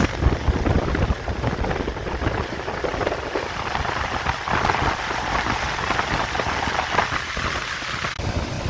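Ford 360 FE V8 engine of a 1970 F250 running, a steady low pulsing under a broad hiss, with a cut in the sound near the end.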